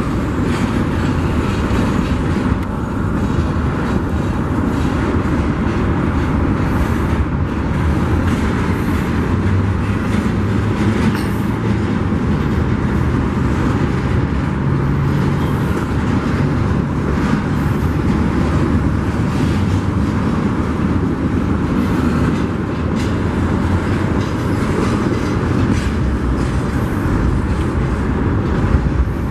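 Union Pacific freight train's cars rolling past on the rails, a steady rumble of wheels on track with scattered faint clicks.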